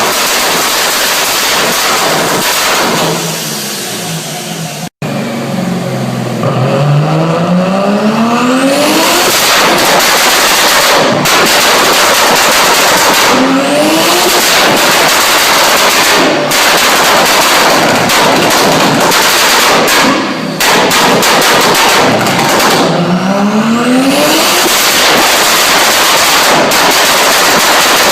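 BMW E30 engines revved hard through loud exhaust systems, with rapid popping and banging crackle from the exhaust throughout. The revs climb sharply three times, each climb followed by a burst of bangs.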